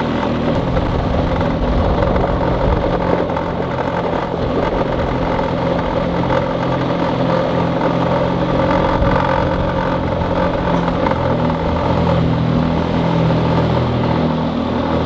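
A motor vehicle's engine running steadily as it drives along, its pitch stepping up and down a little now and then.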